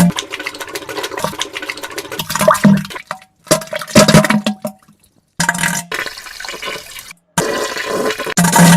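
Diarrhea sounds: wet sputtering and splashing into toilet water, in short spliced clips that cut off abruptly several times.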